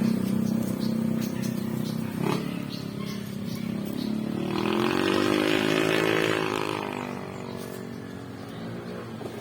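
Small 50cc motorcycle engine running, revved once in the middle, its pitch rising and falling back before it settles.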